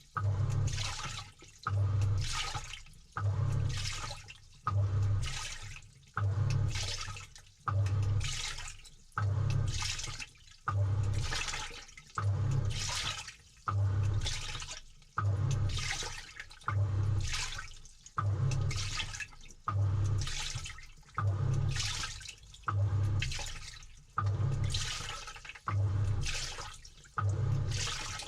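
Samsung 6.5 kg top-load washing machine agitating a load in water, heard from inside the tub: the motor hums with each turn of the pulsator and the water sloshes, about once every second and a half, with the stroke direction reversing between strokes.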